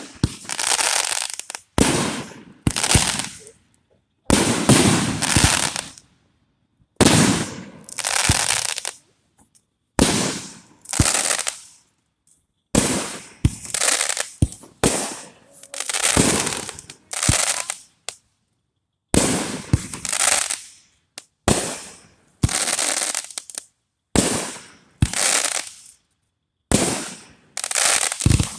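Fireworks going off one after another, about two dozen in all, each a sharp bang trailing off in about a second of fading crackle, with short gaps between them.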